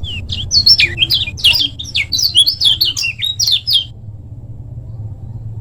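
Kecial kuning, a yellow white-eye, singing a fast chattering burst of quick up-and-down whistled notes for about four seconds, then stopping. A steady low hum runs underneath.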